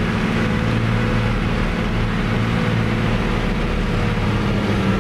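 Fiat 110-90 tractor's six-cylinder diesel engine running steadily under way on the road, an even low drone.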